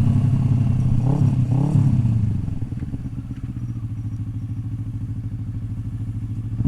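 Motorcycle engine running steadily, dropping to a quieter, steady idle about two and a half seconds in.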